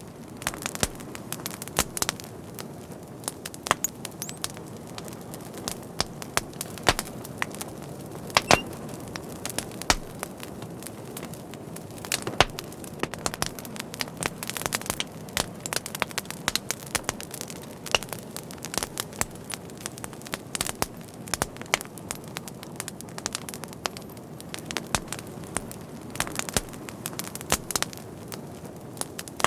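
Fire crackling: irregular sharp pops and snaps, several a second, over a steady low hiss of the flames.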